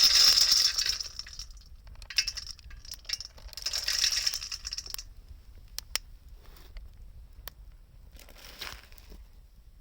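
Wood fire crackling with scattered sharp pops, with two bursts of crunching and clinking, one near the start and one around four seconds in.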